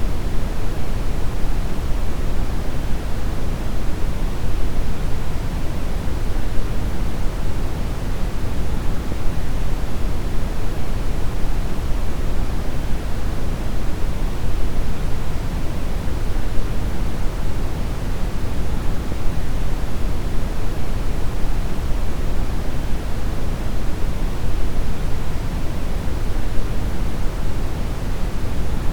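Steady brown noise: a deep, even rushing hiss weighted toward the bass, with no change or events.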